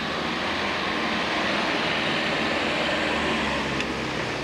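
Range Rover engine running as the off-road vehicle drives along a dirt track, a steady noisy drone that swells slightly in the middle and eases near the end.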